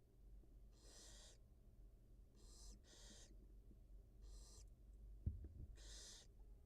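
Barn owl in a nest box giving faint, breathy hissing calls of about half a second each, five in a row. A short soft knock comes about five seconds in.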